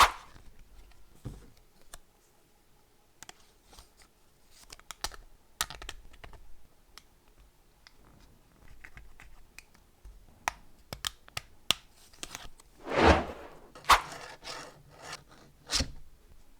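Small hard plastic 3D-printed parts being handled: scattered clicks and taps, with a louder scrape about 13 seconds in and sharp clicks just before 14 and near 16 seconds.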